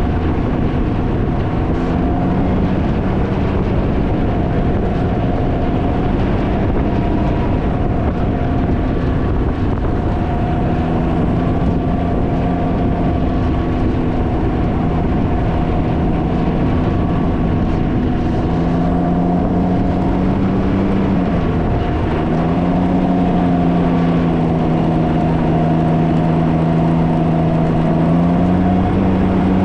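Can-Am Ryker three-wheeler's engine running at a steady cruise, its note dipping briefly about two-thirds of the way in, under heavy wind noise buffeting the microphone.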